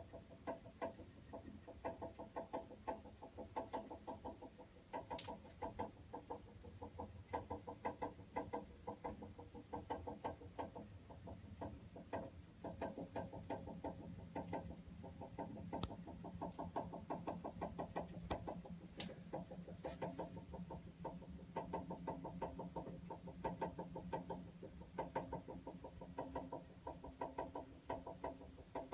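Water heater making a rapid, rhythmic pulsing chatter. A low steady hum joins in about halfway through and drops away a few seconds before the end.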